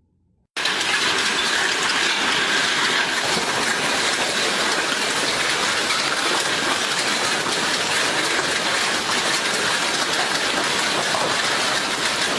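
Heavy hailstorm: hailstones pelting down in a dense, steady noise that starts abruptly about half a second in.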